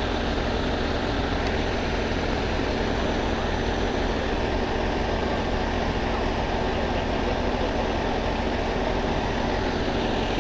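Heavy tow truck's engine idling steadily, a low even hum.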